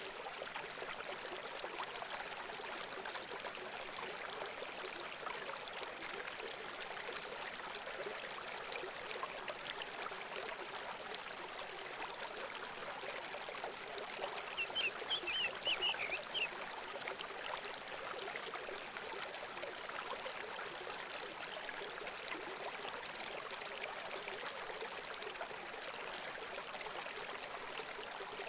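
Steady rush of running water, like a small stream trickling. About halfway through, a bird gives a quick run of short high chirps lasting about two seconds.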